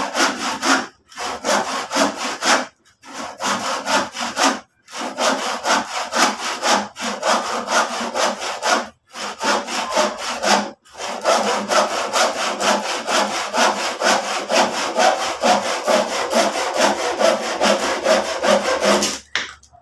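Handsaw cutting through a piece of used lumber in quick, even back-and-forth strokes. The sawing pauses briefly a few times and stops just before the end.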